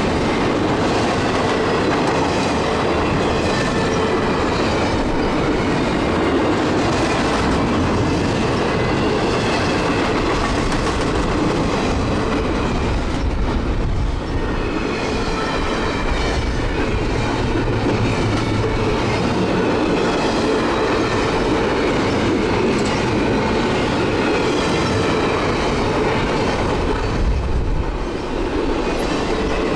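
Double-stack intermodal freight train's well cars rolling past steadily, their steel wheels rumbling and clacking over the rails.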